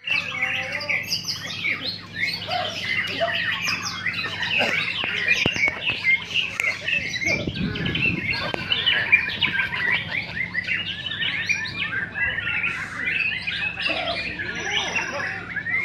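Several white-rumped shamas singing at once, a dense tangle of overlapping whistles and chirps with no break, over a steady low hum.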